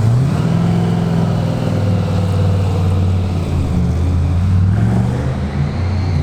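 Supercharged big-block Chevy V8 of a drag car running at low revs, picking up slightly just after the start and easing back again near the end.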